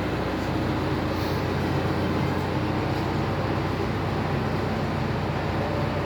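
A vehicle engine idling steadily with a low, even hum, unchanged throughout.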